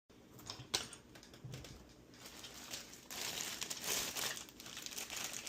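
Crinkling, rustling handling noise with scattered sharp clicks, louder in the second half.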